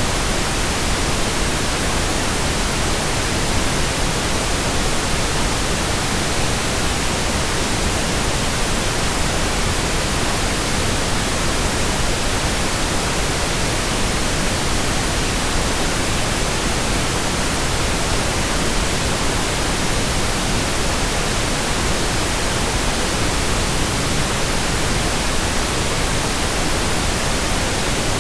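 Steady synthetic white noise, an even hiss across the whole range that does not change: a sleep and relaxation noise track for babies.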